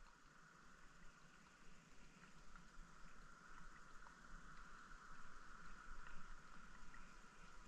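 Faint, steady rushing of stream water, with scattered small ticks and pops.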